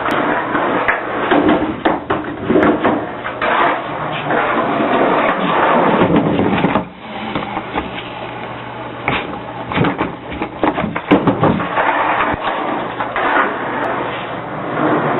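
Skateboard wheels rolling on a hard floor, with repeated knocks and clacks of the board.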